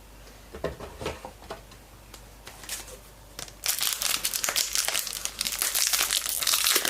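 A few light clicks of cards being handled, then from about three and a half seconds in a foil trading-card pack crinkling loudly as it is torn open.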